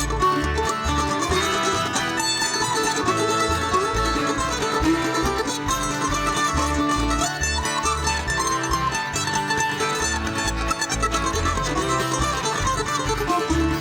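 Bluegrass band playing an instrumental passage: banjo, guitar and mandolin picking over a bass line on a steady beat.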